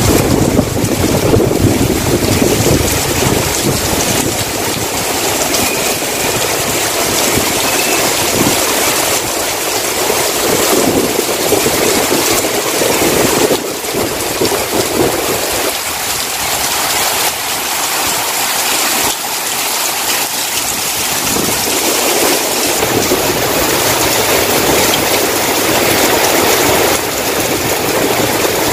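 Heavy tropical downpour: dense, steady rain hissing on parked cars and pavement, with strong wind gusting against the microphone as a low rumble that rises and falls.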